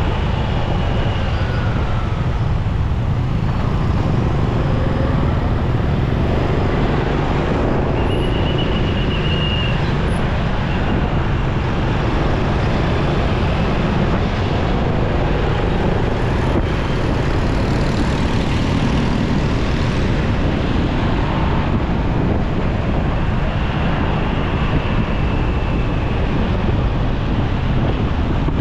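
Steady rumble of a motorcycle riding through busy city traffic, its engine and road noise mixed with the surrounding vehicles. A short high tone sounds about eight seconds in and again faintly near the end.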